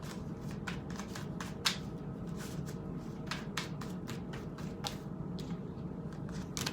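Tarot cards being handled and shuffled: a run of irregular soft card snaps and flicks, over a faint steady low hum.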